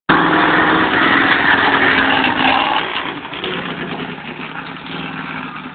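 The 'Slaine' monster truck's engine running loud with a steady drone, easing off about three seconds in.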